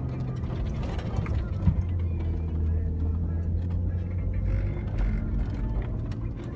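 Four-wheel-drive SUV's engine running steadily under load while driving over sand dunes, heard from inside the cabin. Its note steps down with a short click about two seconds in.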